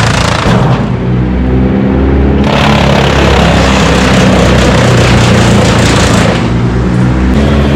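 A loud engine running steadily, with a harsh rushing noise over it that drops away briefly about a second in and again near the end.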